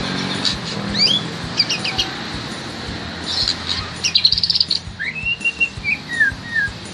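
White-rumped shama (murai batu) singing: varied whistled glides and quick runs of chirps, then near the end a long arching whistle followed by two short falling notes. A faint low traffic hum lies underneath.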